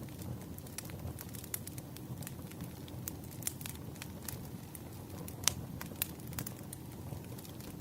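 Wood fire crackling: a steady low rumble with scattered sharp pops and snaps, one louder pop about five and a half seconds in.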